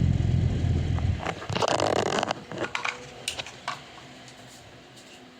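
Air from an electric fan buffeting the microphone as a low rumble, which stops about a second in. A second of crackling handling noise and a few sharp clicks follow.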